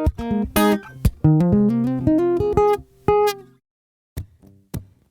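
Acoustic guitar music: plucked notes over a rising bass line, breaking off about three and a half seconds in, followed by a few single plucked notes.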